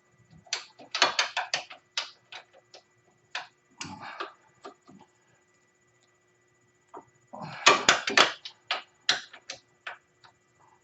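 Ratchet wrench clicking in quick runs of sharp clicks while the A-arm bolts are tightened, in two main bursts with a few single knocks of metal between them.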